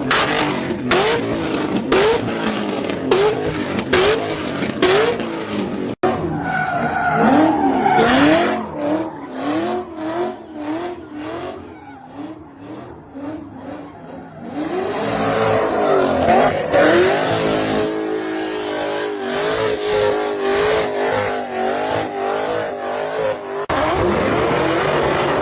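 Drift cars' engines revving up and down over and over as the throttle is worked, with tyres squealing and skidding. The sound changes abruptly twice as one car gives way to another.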